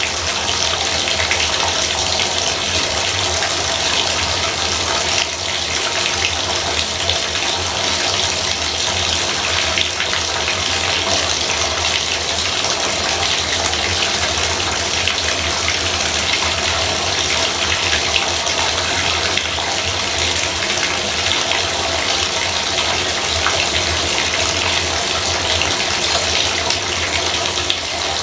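Bathtub faucet running steadily, water pouring into the tub with an even, unbroken splashing hiss.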